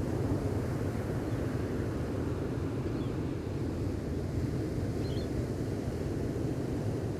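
Gentle ocean waves at the shore making a steady low wash, with two faint, brief bird chirps about three and five seconds in.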